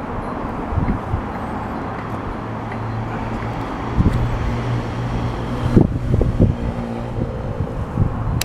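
2014 Yamaha VMAX 1700's V4 engine idling on its stock intake and exhaust, a steady low rumble.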